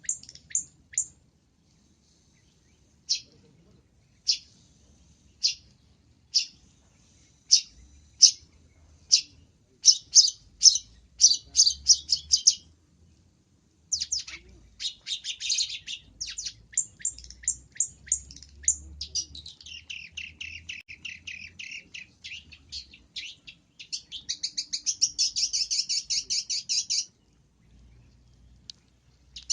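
Long-tailed shrike (cendet) singing a varied, mimicry-filled song: sharp single notes spaced about a second apart, then quick chattering runs. It moves into a long run of dense chatter and a fast, high trill that stops a couple of seconds before the end.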